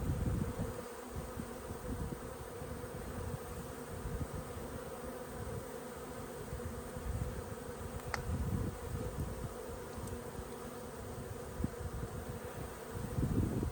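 Honey bees buzzing steadily around an opened hive as its frames are inspected, over a low, uneven rumble that grows near the end.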